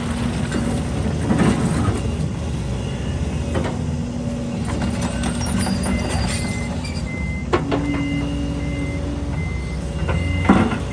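Heavy diesel earthmoving machinery running steadily, with a few sharp clanks. From about six seconds in, a reversing alarm beeps at an even pace.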